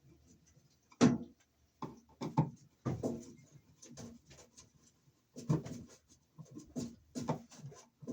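Irregular clicks, knocks and scraping of a blank cover plate being handled and fitted onto an electrical junction box, with a sharp knock about a second in.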